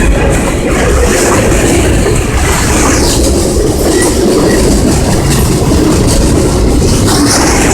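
Canadian National freight train rolling past, its wheels running loud and steady on the rails.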